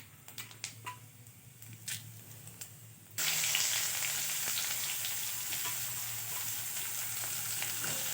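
Bay leaves and whole cumin seeds crackling in hot mustard oil in a kadai, with scattered sharp pops. About three seconds in, a loud steady sizzle starts suddenly as chopped onions go into the hot oil.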